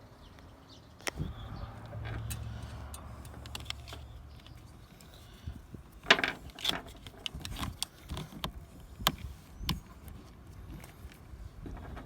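Small metal clicks and taps of a battery terminal screw, square nut and cable lug being handled and fitted onto a generator's starter battery, with a low rumble for a few seconds near the start.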